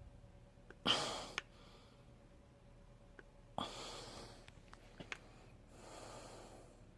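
A person breathing out three times close to the microphone: two sharp puffs about a second in and about three and a half seconds in, then a softer, longer sigh near the end, with a few faint clicks between.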